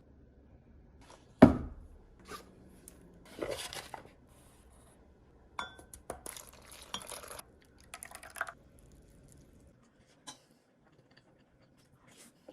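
Kitchen handling sounds: a loud knock about a second and a half in, followed by scattered clinks and scraping of dishes and utensils.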